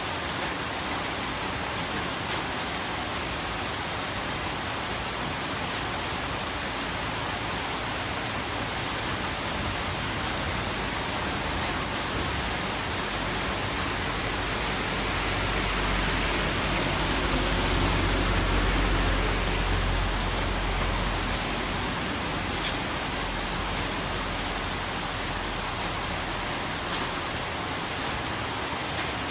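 Steady heavy rain falling. A deep low rumble swells and fades in the middle of the stretch.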